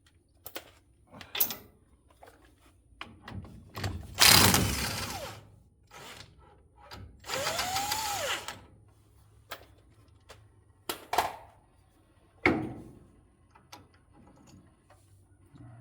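Power tool, most likely a cordless impact wrench, run twice on the rear axle's hub nut through a specialty axle-nut socket: a short loud burst about four seconds in, then a longer run whose pitch rises and falls as the motor spins up and winds down. Scattered clicks and knocks of tools being handled between runs.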